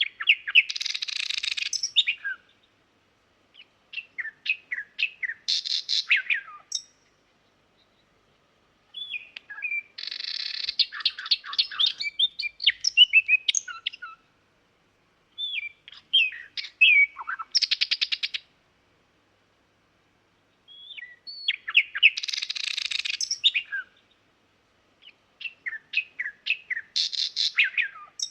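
Nightingale singing: six separate phrases of rapid repeated notes, trills and whistles, each a few seconds long, with short pauses between them.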